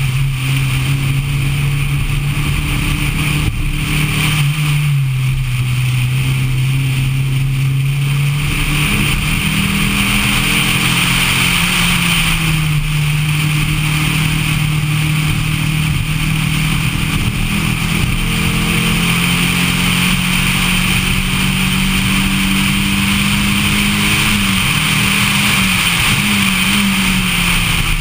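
Dodge Neon's four-cylinder engine running hard through a track lap. Its note dips for a few seconds, then climbs and holds higher for most of the stretch, wavers near the end and falls back. A steady rush of wind and road noise runs under it.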